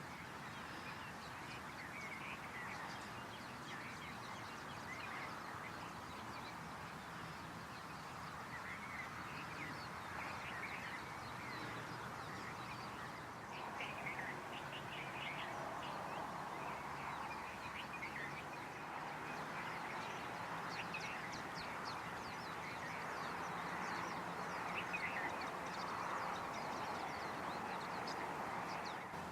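Many birds chirping and calling in quick short notes over a steady background hiss.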